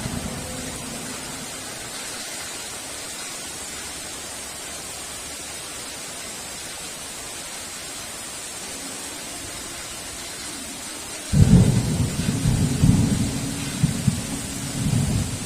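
Steady heavy rain with thunder: a rumble dying away at the start, then a sudden loud crack of thunder about eleven seconds in that rolls on, swelling several times, to the end.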